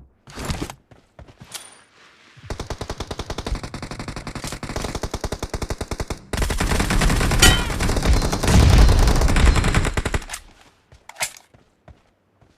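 Video-game automatic gunfire. A long burst of rapid, evenly spaced shots starts about two seconds in and gets much louder and heavier about six seconds in before stopping near ten seconds. A few single shots come before and after it.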